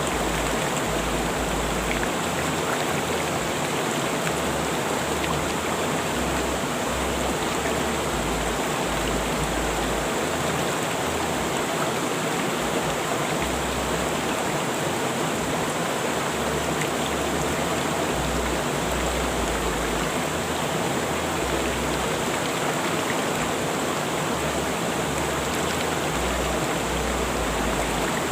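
River water rushing over rocks, a steady, even flow noise.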